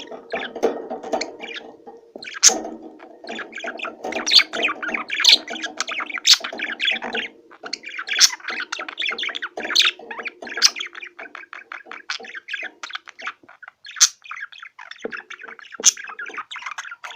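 A flock of small cage birds chattering together, a dense, unbroken stream of quick chirps and squawks. A low steady tone runs underneath for the first several seconds and returns briefly near the end.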